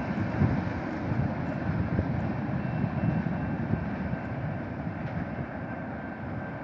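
Freight cars rolling past: a steady rumble and clatter of steel wheels on the rails, easing slightly near the end.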